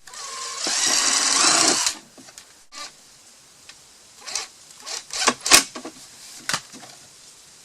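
Cordless drill/driver running in one burst of about a second and a half, driving a screw to fasten the feeder parts, followed by a few light knocks and clicks of handling.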